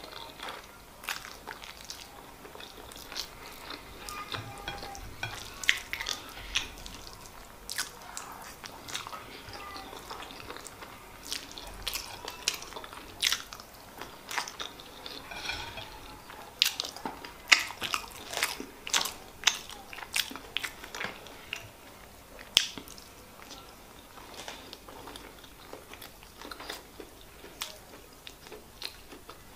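Close-miked chewing and mouth sounds of a person eating handfuls of white rice with stew by hand: irregular wet smacks and clicks, busiest around the middle.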